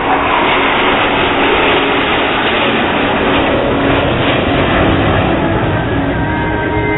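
Aircraft flying past, a loud, steady rushing noise that drowns out background music.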